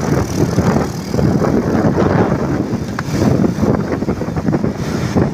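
Mitsubishi Canter truck's diesel engine running steadily.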